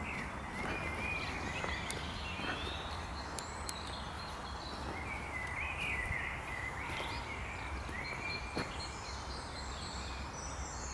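Several woodland birds singing and chirping over a steady low rumble of background noise, with a few soft ticks of footsteps on the forest floor.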